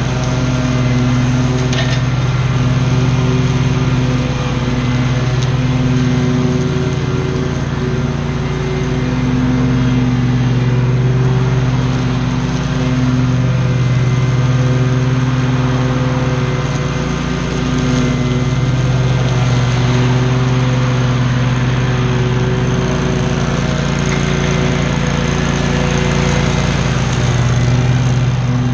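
Lawn mower engine running steadily at a constant pitch while cutting, its level swelling and easing every few seconds.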